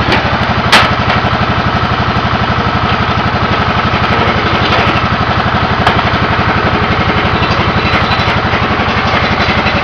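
Cub Cadet 2166 garden tractor engine running steadily, with an even rapid firing pulse. A sharp click comes about a second in.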